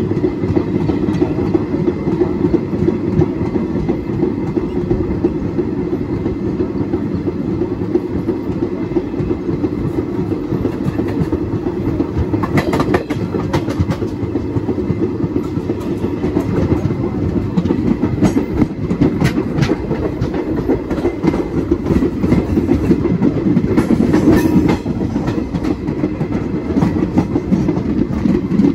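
Train running along the track with a steady rumble and the clickety-clack of wheels over the rail joints, with sharper clusters of clicks at times.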